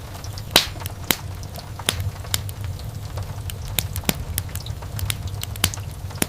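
Wood fire burning in a fireplace: a steady low rumble of the flames with irregular sharp pops and crackles from the logs, the loudest pop about half a second in.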